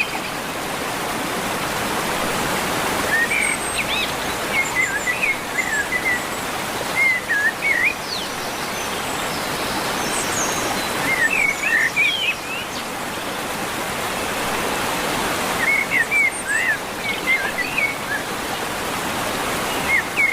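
Steady rush of running water, with a bird repeating a short burst of chirping notes every four or five seconds.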